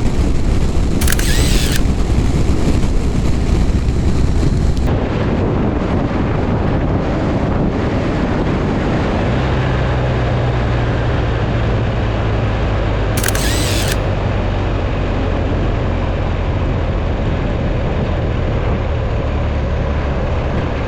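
Motorcycle riding at road speed: a steady rush of wind noise over a low, even engine hum. Two brief hissing swooshes stand out, about a second in and near the middle.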